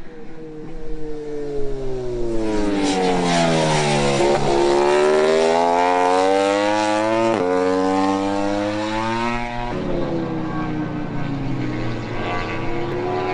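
MotoGP racing motorcycle engine on track. Its pitch falls as the bike slows, then climbs hard under acceleration, breaks sharply downward at a gear change about seven seconds in, and falls again near the end.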